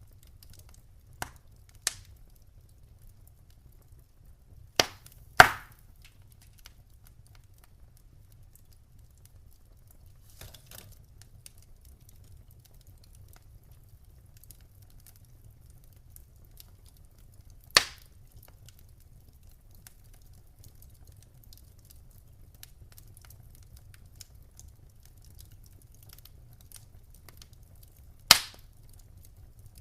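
Wood fire crackling in a fireplace: sparse sharp pops and snaps, a few seconds apart, over a faint low rumble. The loudest pops come about five and a half seconds in and near the end.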